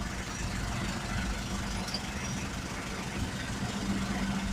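A road vehicle's engine running steadily with a low, even hum, swelling slightly near the end.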